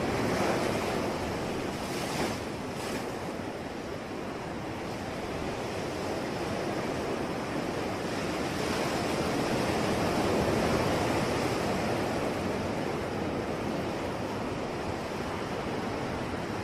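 Sea waves washing on a shore, the surf swelling and easing slowly, with two brief splashes about two and three seconds in.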